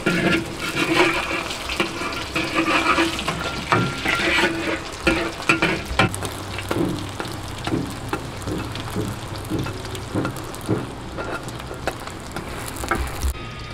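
Flatbread frying in oil in a wide iron pan, sizzling steadily, with a metal spatula scraping and tapping against the pan as the bread is pressed and turned. The sizzling cuts off abruptly near the end.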